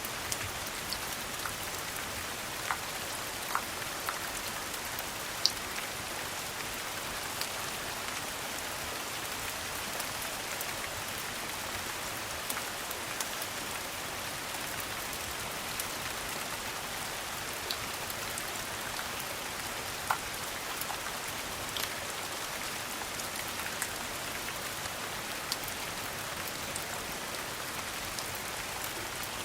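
Steady rain falling, a dense even hiss, with scattered sharp little pops and ticks every second or two.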